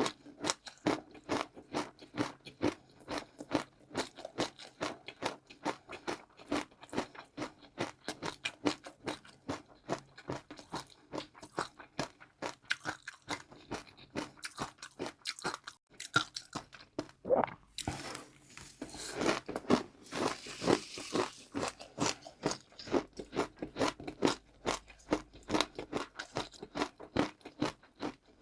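Close-up chewing of crunchy food, a rapid run of crisp crunches at a steady chewing pace of a few bites a second. A short hissing stretch breaks in about two-thirds of the way through.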